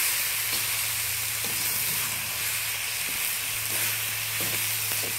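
Lamb and vegetables frying in a hot wok with a steady sizzle, stirred now and then with a spoon that scrapes briefly against the pan.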